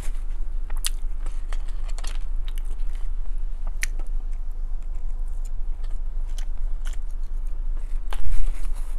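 Close-miked chewing of chili cheese fries, with scattered wet mouth clicks and smacks and a louder knock near the end, over a steady low hum.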